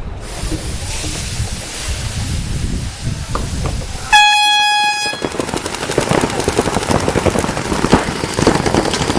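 A horn sounds once, a steady high tone lasting about a second, a little before the middle. It is the loudest thing, over a noisy background. After it comes a dense run of rapid clattering.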